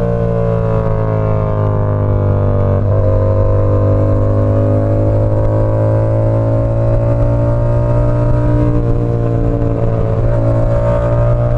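Yamaha R7's 689 cc parallel-twin engine running through an SC Project CR-T exhaust while riding. The engine note falls for the first few seconds, jumps up with a brief break just under three seconds in, then climbs slowly. It dips briefly and rises again near the end.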